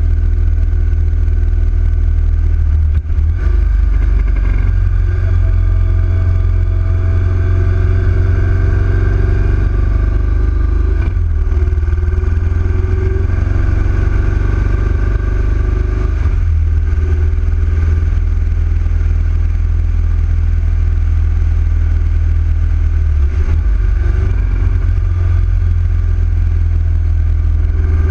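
Yamaha XV1900 air-cooled V-twin, fitted with a 120R big-bore kit, running on the move with a heavy low rumble. The engine pitch rises and falls a few times as the bike changes speed.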